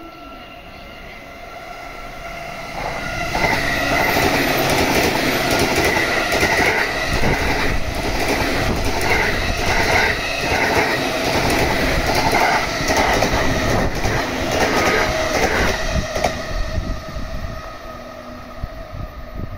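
E235-1000 series electric train passing at speed. It grows louder over the first three seconds, then runs loud with wheels clattering over rail joints, and fades away from about sixteen seconds in.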